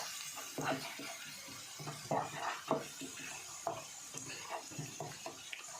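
A utensil stirring and scraping in a frying pan, mixing a spoon of flour into garlic fried in sunflower oil, with irregular scrapes and knocks over a light sizzle.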